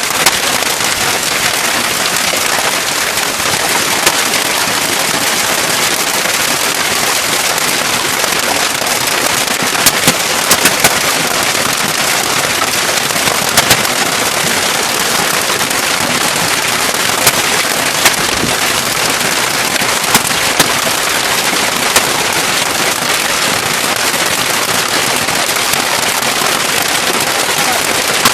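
Heavy rain with hail: a loud, steady downpour hiss, with scattered sharp cracks of hailstones striking a hard surface.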